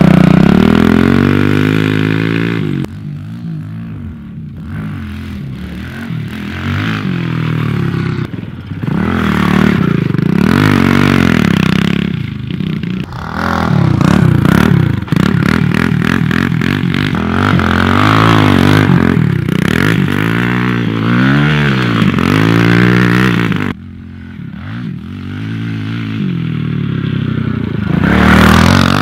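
Four-stroke single-cylinder pit bike engine being ridden, its pitch climbing and dropping over and over as the throttle is opened and closed, with a quieter spell near the end.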